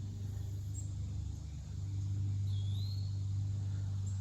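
A bird gives a single short rising whistle a little over halfway through, over a low steady rumble that grows louder about two seconds in.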